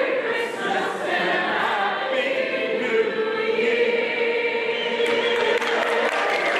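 A large group of voices singing a Christmas carol together, holding a long final note; clapping breaks out about five seconds in as the note is held.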